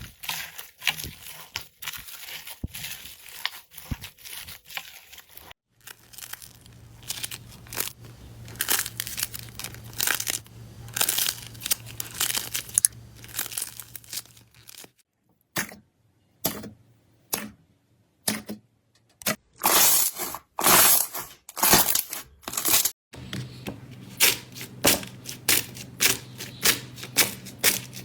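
Slime being squeezed and poked by hand, making crackling, sticky popping and clicking sounds, in several short stretches that change abruptly. Near the end the pops come regularly, about two a second.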